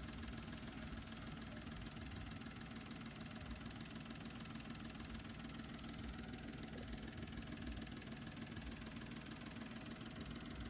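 Faint, steady idle of a Daihatsu Move's small three-cylinder engine. There is no true misfire, though the ECU logs a P1399 ion-current fault because cylinder 2's ignition-confirmation signal is too narrow.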